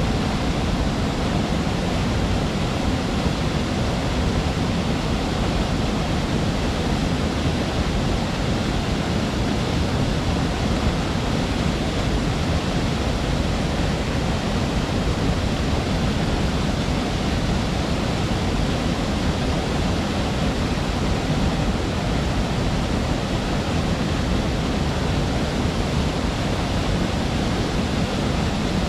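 Waterfall: water pouring and splashing into a pool in a steady, unbroken rush that is heaviest in the low range.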